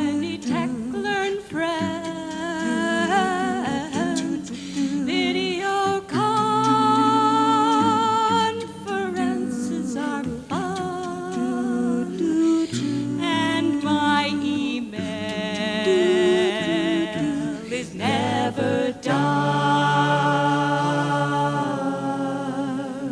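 An a cappella vocal group singing in harmony, holding long chords with vibrato and no instruments.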